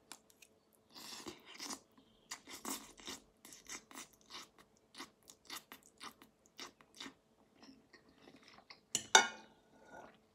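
A person chewing and slurping a mouthful of instant noodles, with short wet mouth sounds about two or three a second and a louder sound about nine seconds in.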